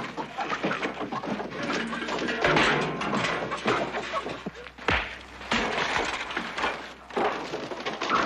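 Repeated thuds and knocks of a fistfight: punches landing and bodies hitting things.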